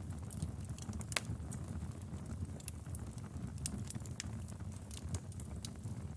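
Wood fire crackling: irregular sharp pops and snaps over a steady low rumble of the flames, with one louder pop about a second in.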